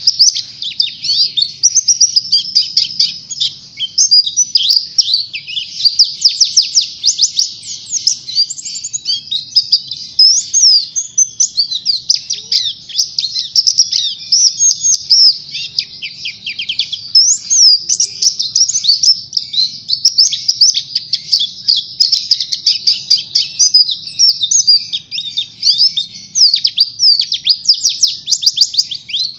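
White-eye (pleci) singing in full, continuous song: a fast, high-pitched chattering warble of rapid trills and chirps with barely a pause.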